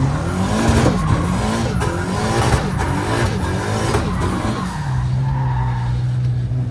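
Car drifting: the engine revs up and down again and again while the tyres skid and squeal. From about five seconds in, the engine settles to a steady note.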